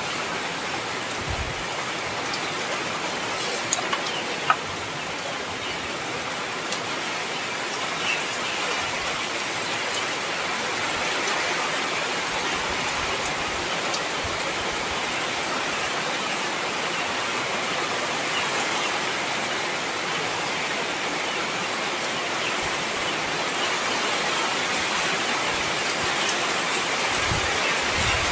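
Heavy rain falling steadily, an even hiss of downpour with a few sharper individual drips standing out near the start.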